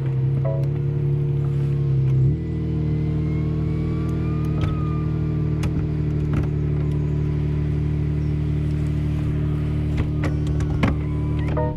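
BMW M4 Competition's 3.0-litre twin-turbo inline-six idling steadily. Its note shifts slightly about two seconds in.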